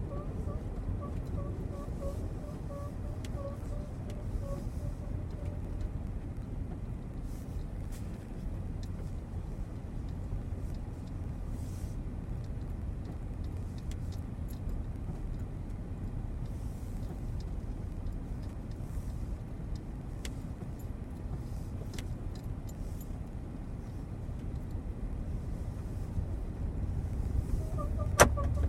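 Hyundai Creta 4WD driving slowly in first gear in hard frost, heard inside the cabin: a quick series of short squeaks from underneath over the low road rumble, fading out after about five seconds and returning near the end, along with a single sharp click. The squeak comes from the propeller shaft's centre support bearing, the fault later found and fixed by replacing the driveshaft with its centre bearing.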